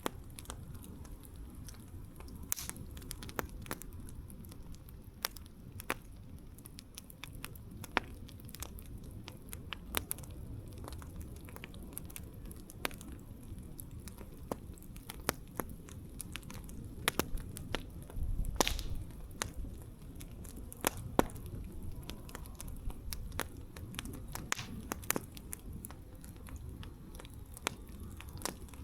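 Wood campfire crackling: irregular sharp pops and snaps over a steady low rumble of the flames, with a louder low surge about two-thirds of the way through.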